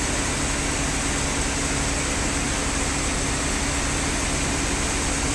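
Sawmill machinery running steadily, a constant low hum and rumble with no cutting strokes or changes.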